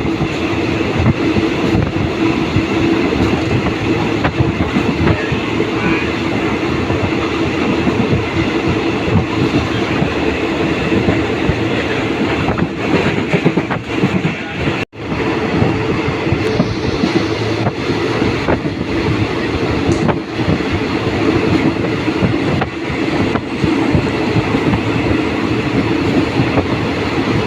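Train running along the track: a steady rumble and rattle of the wheels and carriages, with a clickety-clack over the rails. The sound cuts out for an instant about halfway through, then carries on.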